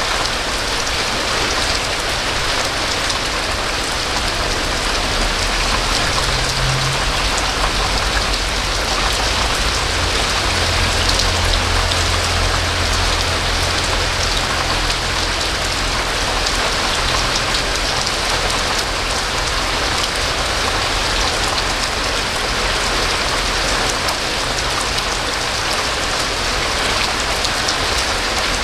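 Steady, heavy rain falling: a dense, even hiss of drops, with a faint low hum underneath that swells a little about a third of the way in.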